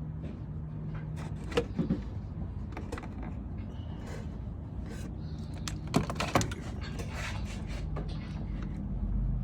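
A few light clicks and scrapes of multimeter test probes being moved and pressed onto the posts of an electric golf cart's toe-switch plug, over a steady low hum.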